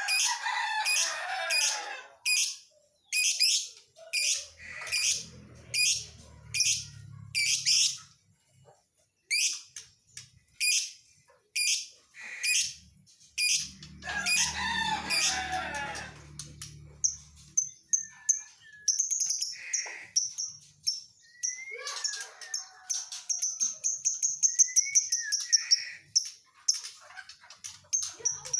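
Lovebird calling: sharp high chirps repeated about twice a second, then a long, fast, high-pitched chattering trill in the second half. A low hum comes in twice under the calls.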